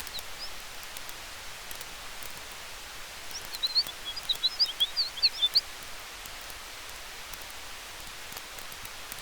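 Campfire burning with a steady hiss and faint, scattered crackles, under a wash of wind. About three and a half seconds in, a bird gives a quick run of high chirps lasting about two seconds.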